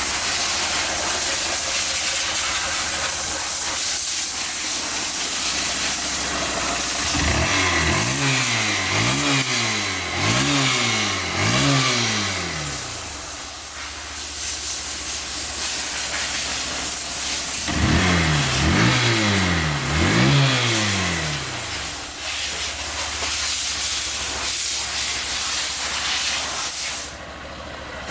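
Honda CBF125 single-cylinder four-stroke engine idling under a loud steady hiss. It is revved briefly four times about a quarter of the way in and three more times just past the middle; each rev rises and falls within about a second.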